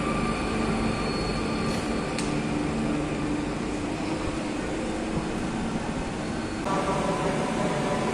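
Electric multiple-unit train moving slowly along a station platform. A steady low rumble runs under a whine of several steady tones, and about two-thirds of the way in the tones jump to a new set of pitches.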